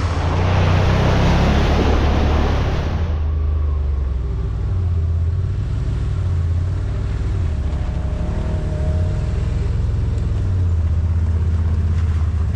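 Side-by-side UTV engine running under way, a low rumble that rises and falls with the throttle. A loud rush of noise sits over it for about the first three seconds, then drops away.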